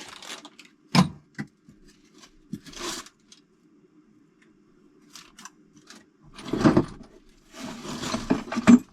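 Loose steel engine bolts clinking and rattling against each other as they are handled and sorted, with a few single clicks and a rustle, and two louder bursts of clattering near the end.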